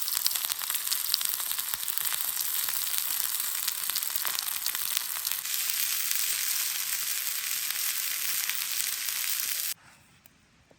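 Chicken sizzling on a red-hot stone, a steady loud hiss with frequent small pops, cutting off suddenly near the end.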